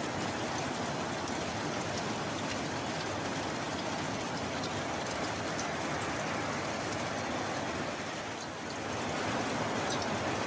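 Steady rain falling, a dense hiss with scattered individual drop ticks, easing briefly about eight seconds in before returning.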